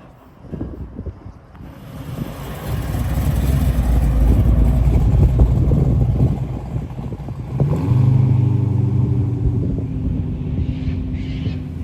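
Car engine rumbling nearby, growing louder over a couple of seconds, then settling into a steady, even engine note about eight seconds in.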